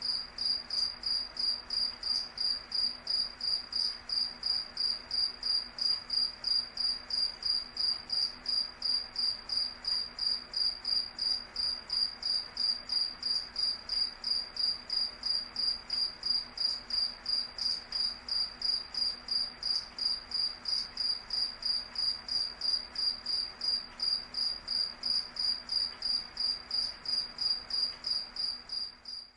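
A cricket chirping steadily in a regular rhythm: one high, clear note repeated about two to three times a second.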